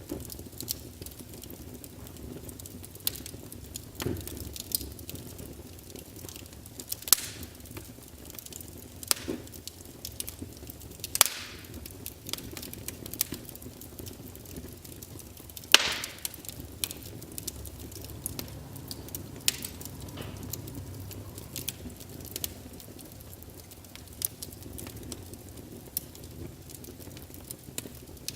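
Wood fire in a fireplace crackling: irregular sharp pops and snaps of burning logs over a low steady rumble of flame, with the loudest pops about eleven and sixteen seconds in.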